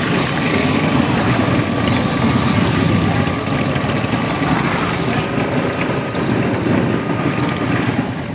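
Harley-Davidson V-twin motorcycle engine idling steadily with a loud, uneven, lumpy beat.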